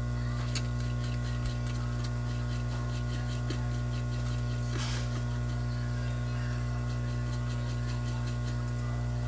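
Steady electrical mains hum, with faint light ticking and a brief soft rustle about five seconds in.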